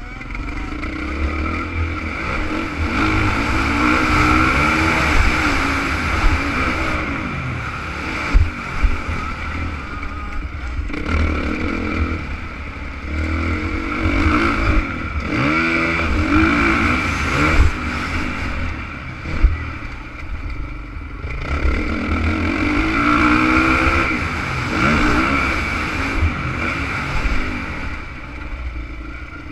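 Honda CRF450 motocross bike's four-stroke single-cylinder engine revving up and falling back again and again as it is ridden, over a heavy low rumble, with a few sharp knocks.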